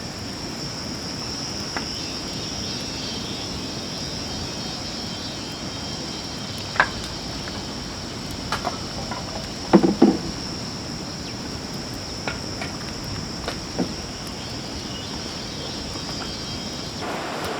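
Steady, high-pitched insect chirring, with a few scattered short knocks; the loudest cluster of knocks comes about ten seconds in.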